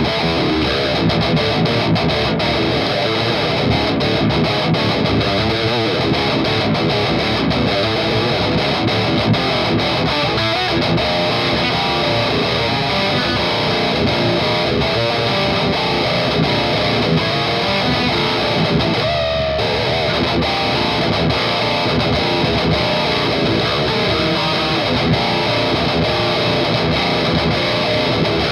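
Electric guitar played continuously with heavy high-gain distortion through a Noise Pollution Pedals Psycho Metal Death Machine preamp pedal.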